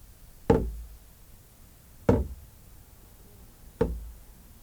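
Three sharp, evenly spaced knocks about a second and a half apart, each dying away quickly.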